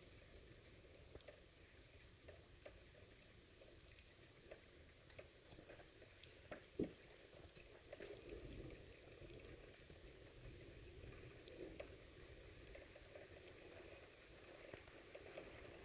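Faint thunderstorm ambience: a soft steady hiss with scattered small ticks, a sharper click about seven seconds in, and a brief low rumble of distant thunder just after.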